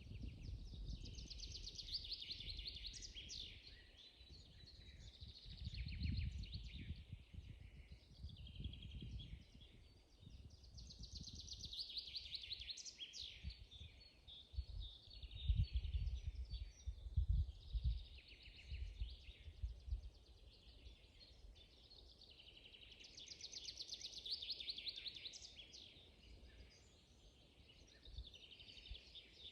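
Songbirds singing in a spring forest: a trilled song phrase of two to three seconds, starting high and falling, repeats several times with shorter calls between. Underneath, a low rumbling noise comes and goes, strongest about halfway through.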